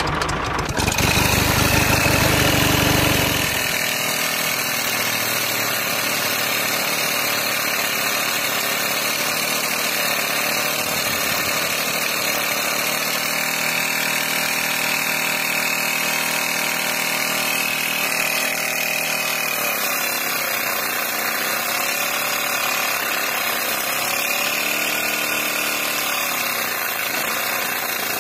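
A small motor running steadily, louder and deeper for the first few seconds, then settling to an even hum.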